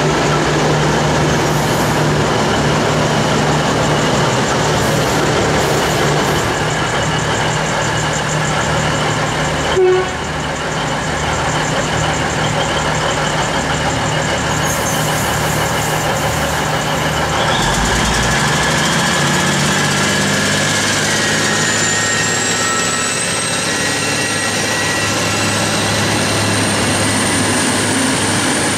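V/Line loco-hauled passenger train running slowly past the platform with a steady deep diesel hum and rolling-stock rumble, and a single loud clunk about ten seconds in. Around eighteen seconds the engine note changes, and a thin rising whine builds toward the end as a V/Locity diesel railcar comes in on the adjacent track.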